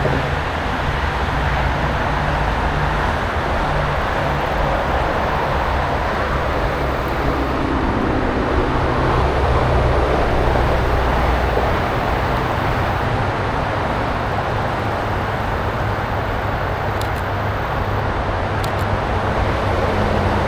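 Highway traffic noise: a steady rumble and hiss of passing road traffic.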